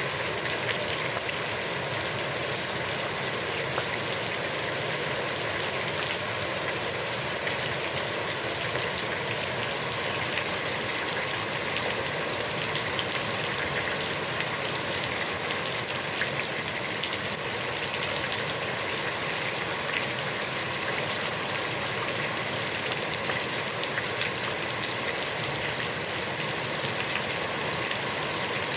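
Heavy rain falling steadily onto a pond, a dense even hiss of drops hitting the water with many small splashes and patters mixed in.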